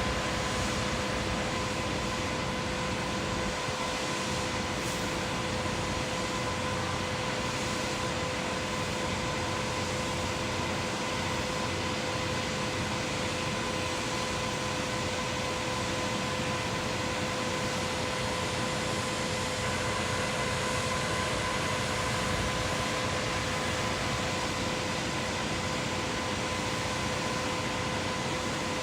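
Concrete pump machinery running steadily, a constant mechanical noise with an even, high whine held throughout.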